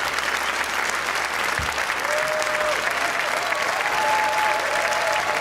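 Large audience applauding steadily, with a few long held calls over the clapping from about two seconds in.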